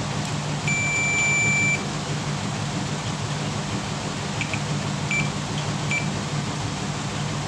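Digital multimeter's continuity buzzer beeping as the probes touch points on a phone's circuit board while checking for a short. One steady beep about a second long comes near the start, then three short beeps, over a steady low hum.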